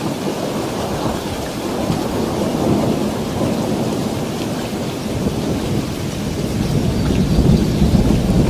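Steady heavy rain with rolling thunder; a low rumble swells near the end.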